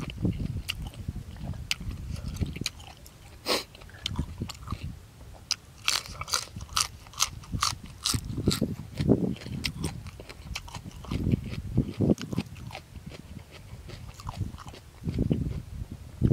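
A person chewing boiled buffalo offal close to the microphone, with a run of crisp crunching clicks about six to eight seconds in.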